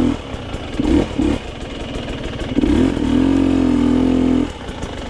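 Dirt bike engine revving in short blips between lower running, with a longer held rev from about two and a half to four and a half seconds in.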